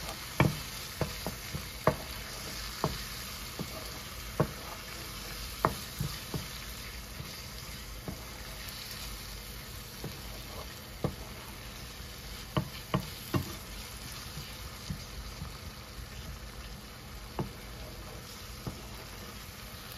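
Onion-tomato masala sizzling gently in a nonstick kadai while a wooden spatula stirs it, with irregular sharp knocks and scrapes of the spatula against the pan.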